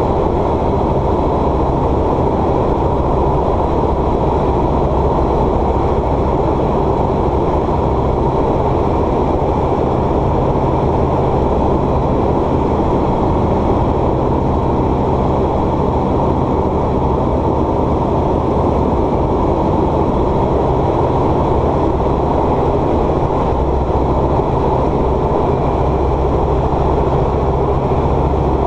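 Steady drone of a light aircraft's piston engine and propeller, heard inside the cockpit in flight.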